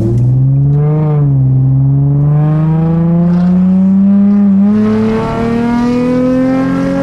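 Nissan 350Z's 3.5-litre V6 accelerating through an aftermarket exhaust with high-flow cats, a Y-pipe and ISR blast pipes. The engine note climbs steadily in pitch for several seconds as the revs rise, after a brief dip about a second in.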